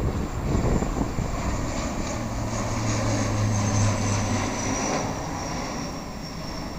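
Airliner's engines running as it passes close by near the runway end: a steady rumble with a high whine that slowly falls in pitch, and a low hum that swells in the middle.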